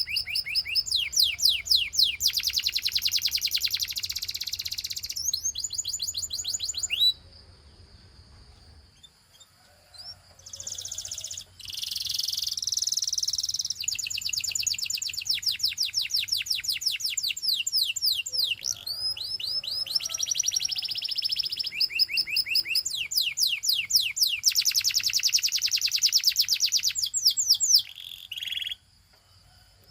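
Domestic canary singing: fast rolling trills of quickly repeated falling notes, strung into long tours that change speed and pitch. The song breaks off for about three seconds some seven seconds in, then resumes and stops just before the end.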